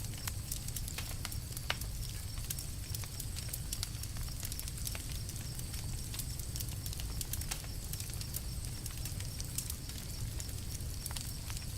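Campfire crackling: frequent sharp pops and snaps at irregular intervals over a steady low rumble.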